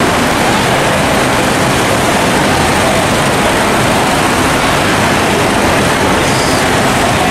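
Heavy rain falling, a loud, steady rushing hiss.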